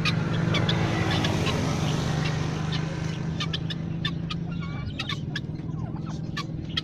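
A flock of mixed farm poultry calling, with many short sharp calls and chirps overlapping, over a steady low hum.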